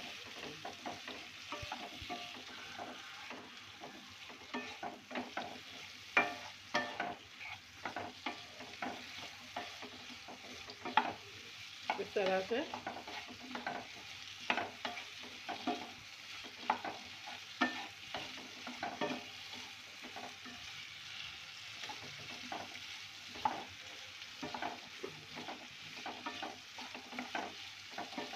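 Sliced potatoes sizzling in oil and masala in a non-stick pan while a wooden spatula stirs them: a steady sizzle broken by frequent irregular scrapes and knocks of the spatula against the pan.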